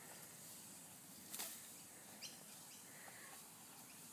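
Near silence: faint open-air background with a few short, high bird chirps and one soft click about a second and a half in.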